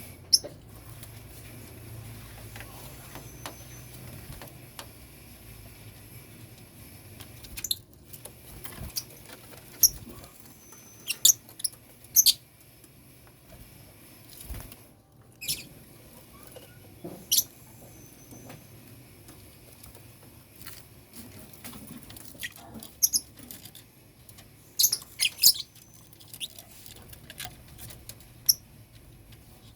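Lovebirds in a colony cage giving short, sharp, high-pitched chirps and squeaks, scattered irregularly with some quick clusters.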